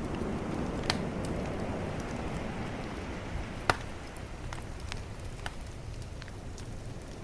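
Bonfire crackling, with sharp pops, the two loudest about a second in and near the middle, over a steady wash of calm ocean waves.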